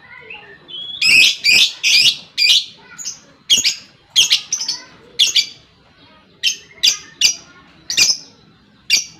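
Lovebird giving a series of sharp, shrill chirping calls, a quick run of them about a second in, then spaced out about every half second.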